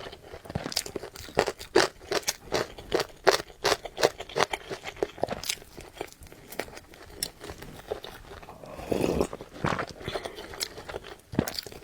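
Close-miked eating: a person chewing and biting food, with many short, sharp crunchy clicks from the mouth and food.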